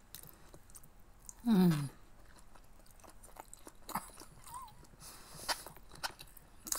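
A woman chewing siomai with her mouth close to the microphone: soft, quiet chewing noises with a few sharp mouth clicks. About one and a half seconds in, a short hum from her voice that falls in pitch.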